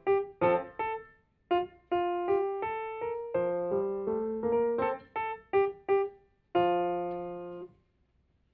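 Piano playing a short piece of single notes and small chords, ending on a final chord held for about a second before it is released.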